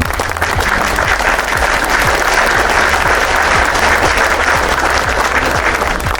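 Applause, with the kick drum of a dance beat still going faintly underneath.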